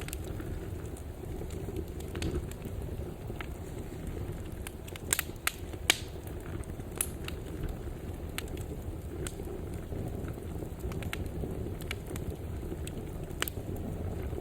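Fireplace wood fire burning with a steady low rumble, and scattered crackles and pops from the logs; the loudest pops come about five and six seconds in.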